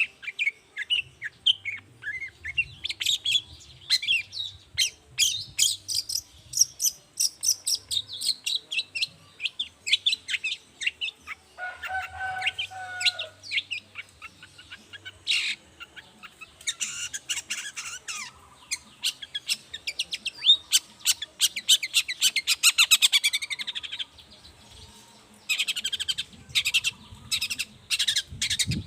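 Long-tailed shrike (cendet) singing a fast, varied chattering song of rapid sharp notes and high trills, with a lower drawn-out call about twelve seconds in.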